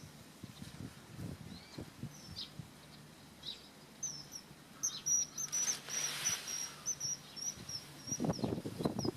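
Common kingfisher giving a rapid series of high, shrill piping calls, about four a second for some three seconds, starting about four seconds in, over faint chirps from other small birds. Near the end comes a run of soft low thuds.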